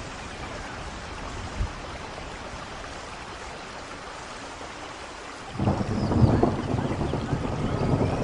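Steady rain falling, then about two-thirds of the way in a loud, low thunder rumble breaks in suddenly and keeps rolling.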